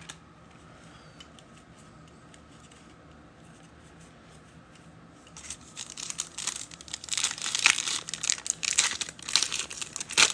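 Plastic wrapper of a trading card pack being torn open and crinkled, in quick rustling crackles that start about halfway through after a quiet stretch.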